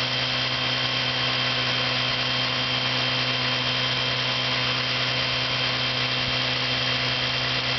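1954 Johnson CD-11 5.5 hp two-cylinder two-stroke outboard motor running steadily at an even speed, fresh from a rebuild with a replacement power head, carb kit and new ignition. Its note is noisier than the later 5.5 hp models, but it runs smoothly.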